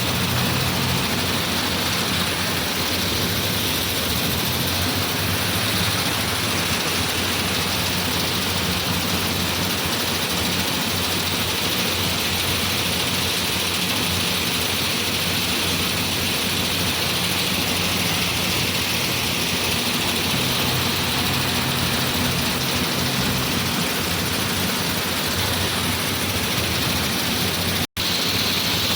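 Tractor engine running steadily, with a very brief dropout about a second before the end.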